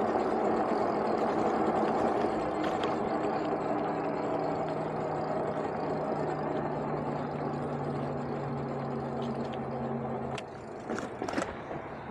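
Super73 electric bike being ridden: steady wind and road rush with a low motor hum that stops about ten seconds in, followed by a few clicks.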